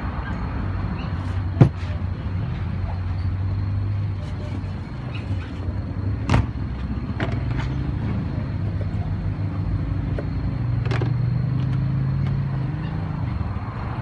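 Steady low hum of a running motor vehicle engine, its pitch rising slightly for a few seconds past the middle, with a few sharp knocks, the loudest about one and a half seconds in.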